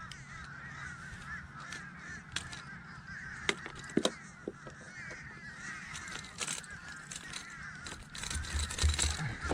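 A flock of birds calling without a break, many short overlapping calls at once, with a few sharp knocks and clicks, two of them close together about halfway through.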